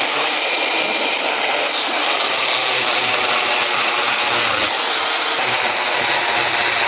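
A machine running with a steady, loud, even whirring noise and no breaks.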